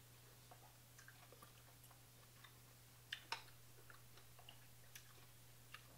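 Faint chewing and small wet mouth clicks of a person eating seafood with her fingers, with two sharper clicks close together about three seconds in.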